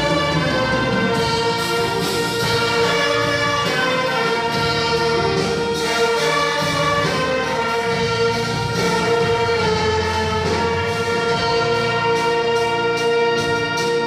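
A church orchestra with brass, trumpets and trombones among it, playing a hymn.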